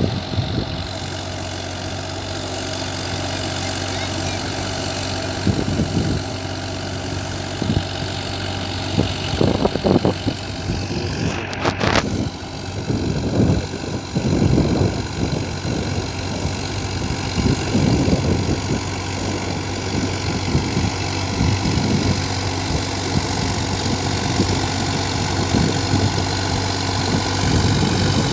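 Sonalika RX 42 tractor's diesel engine running steadily, with irregular low thumps through the middle and a sharp knock about twelve seconds in.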